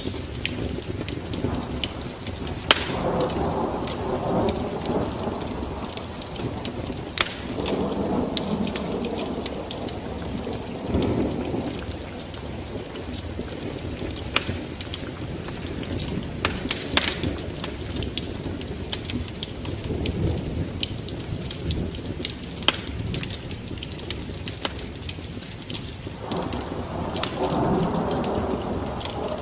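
Wood fire crackling, with sharp pops scattered throughout and several low rushing swells a few seconds long.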